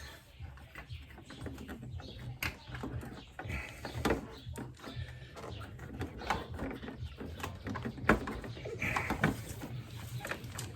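Scattered clicks, knocks and rubbing as a rubber-covered part is worked by hand through a tight spot in a motorcycle's frame, over a steady low hum.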